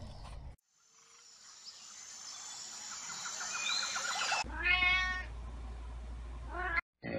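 A kitten meows once: a clear high call that rises and then falls, over a steady low hum, with a shorter call near the end. Before it comes forest ambience: a high hiss that grows louder, with a few chirping calls.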